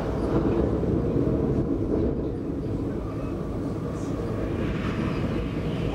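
Cabin running noise of an X60 electric commuter train at speed: a steady low rumble of wheels on rail. A higher hiss comes in near the end.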